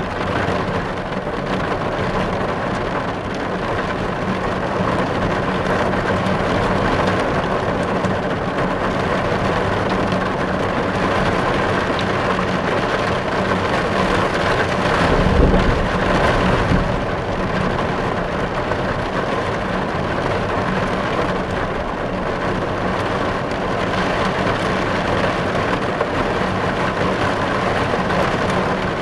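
Heavy rain falling on a car's windows and roof, heard from inside the car: a dense, steady patter, with a brief low rumble swelling about halfway through.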